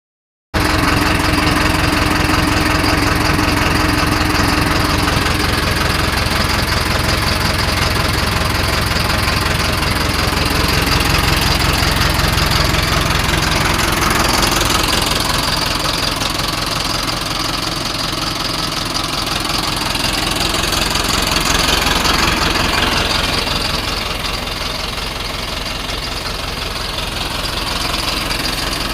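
A Mahindra 9200 4WD tractor's diesel engine idling steadily.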